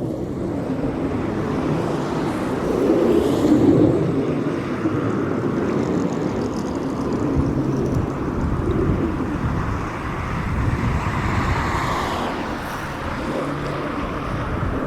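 Antonov An-22A's four Kuznetsov NK-12MA turboprops with contra-rotating propellers, a loud steady noise as the aircraft makes a low pass, swelling and easing in places.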